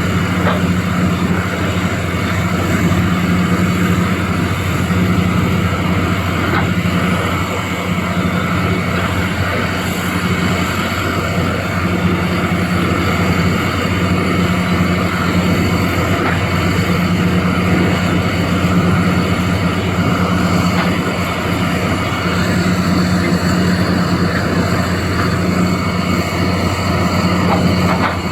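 Doosan DX390 excavator's diesel engine running steadily with a deep, even drone.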